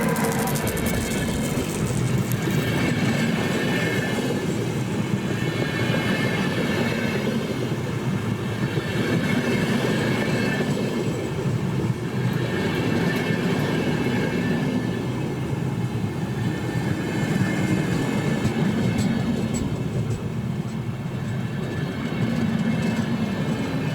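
A train rolling past close by: a loud, steady rumble of its wagons' wheels on the rails.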